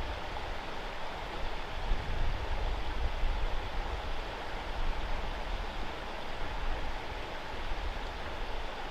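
Steady rushing water of the South River, with a low rumble underneath.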